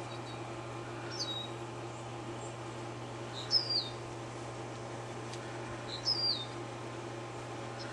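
A small bird calling nearby: a short, high chirp that slides downward, repeated three times a couple of seconds apart, over a steady low hum.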